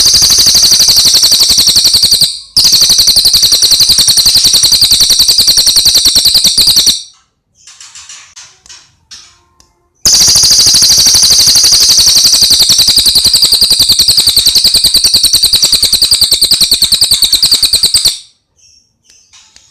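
Cililin singing its high-pitched rapid-fire 'tembakan': long unbroken runs of very fast repeated high notes, like a rattle. Two long runs, the second starting about ten seconds in, with softer, broken chirps in between and near the end.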